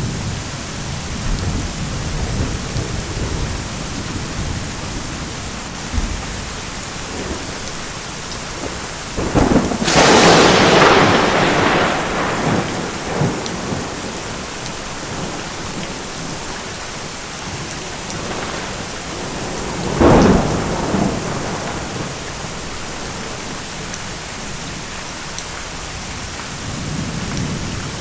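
Steady heavy rain with thunder: a loud thunderclap about a third of the way in that rolls away over a few seconds, a second, shorter crack about two-thirds through, and low rumbling near the start and the end.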